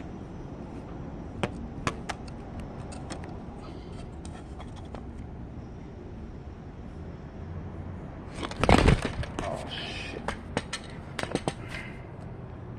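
Hand-work noises on the opened TV while wiring its speaker: scattered light clicks and taps, with one louder, brief scraping rustle about two thirds of the way in.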